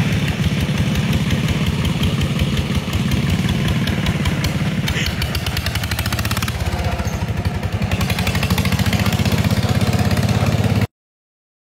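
Vintage tractor engine running steadily, with a quick, even chug of firing pulses, heard while riding; it cuts off suddenly near the end.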